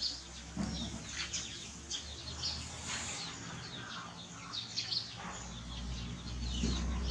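Small birds chirping and twittering in short, high calls. A low rumble builds near the end.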